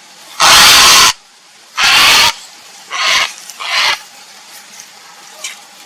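Grey heron giving four harsh, croaking calls: two loud ones about half a second to three-quarters of a second long, then two shorter, softer ones in quick succession.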